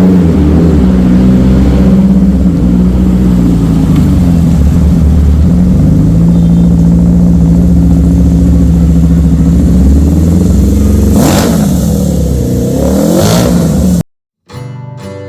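Honda CB-650 motorcycle's inline-four engine idling steadily, then blipped twice near the end, the pitch rising and falling each time, before it cuts off abruptly. Acoustic guitar music starts in the last second.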